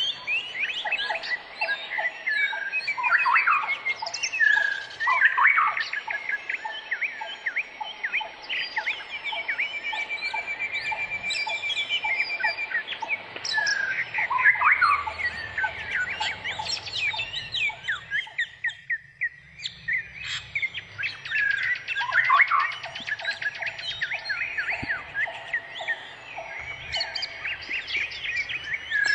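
Many birds chirping and calling at once in a dense, overlapping chorus of short whistles and tweets, with a fast trill about a third of the way in and runs of quick repeated notes.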